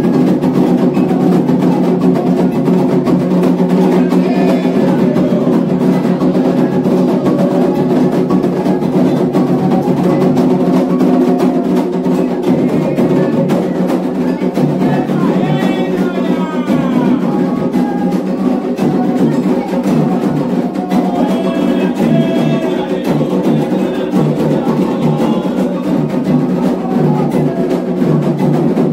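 Candomblé ritual music for Xangô: atabaque hand drums keep up a steady rhythm, with sharp wood-block-like strikes and voices singing over it.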